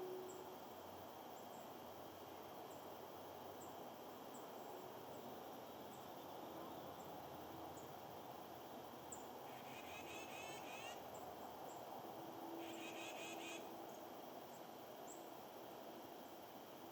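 Small songbirds calling over a steady hiss of outdoor background noise: short, high chip notes about once a second, and two quick trills, one about ten seconds in and another about three seconds later.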